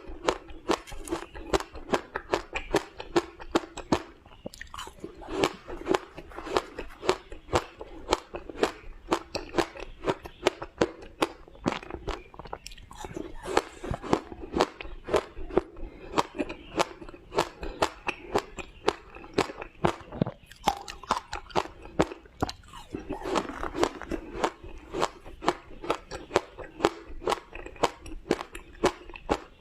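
A person biting and chewing frozen matcha shaved ice, close up: a steady run of sharp, crisp ice crunches, two or three a second.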